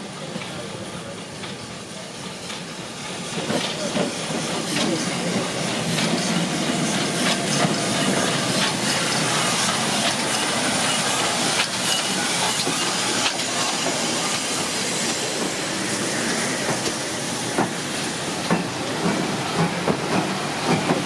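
Steam-hauled train moving past the platform, steam hissing with the clatter and clicks of its wheels and carriages. It gets louder about four seconds in and stays loud.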